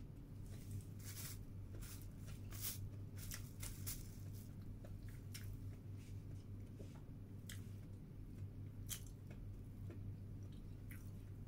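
Close-up chewing of a bread sandwich, with many short wet mouth clicks and smacks at irregular intervals, over a steady low hum.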